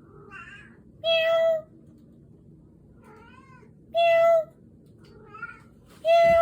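A person meowing to call a cat: three loud, even-pitched meows about three seconds apart. Fainter meows that rise and fall in pitch come in between, the cat answering.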